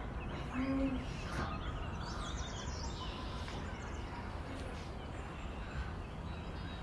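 Faint bird chirps over a steady low background hum.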